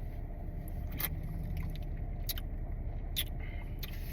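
Steady low rumble of a car engine idling, with three short sharp clicks about one, two and three seconds in.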